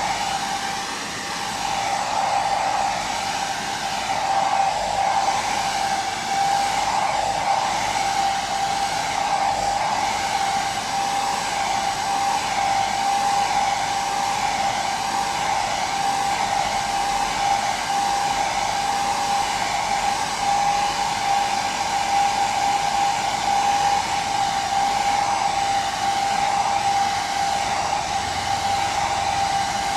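Hair dryer running steadily: a continuous rushing of air with a steady high hum from the motor.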